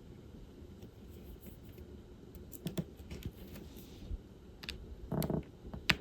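Diamond painting work: scattered light clicks and taps of the applicator pen picking up resin drills and pressing them onto the canvas, with a short duller rattle just after five seconds and a sharper click near the end.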